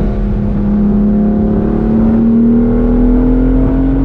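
BMW M4's twin-turbo straight-six engine and exhaust under acceleration, its pitch climbing slowly and steadily as the revs rise through a gear.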